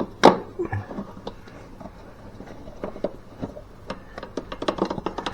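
Scattered light clicks and taps of hands working a shifter cable under the car's carpet, with a sharper click just after the start and a quick run of small clicks near the end.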